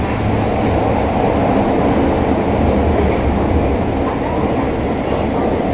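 Running noise of an electric commuter train heard from inside the passenger car: a steady, loud rumble of wheels on the rails and the car body.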